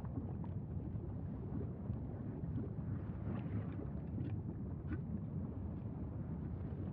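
Steady low rumbling wind noise buffeting the microphone, with a few faint short ticks between about three and five seconds in.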